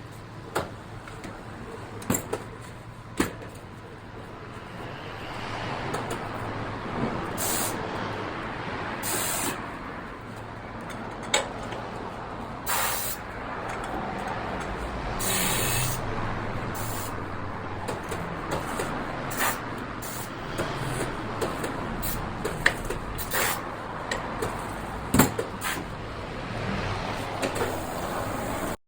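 Tyre-changing work: repeated short bursts of compressed-air hiss, mixed with sharp clicks and metallic knocks over a steady background hum.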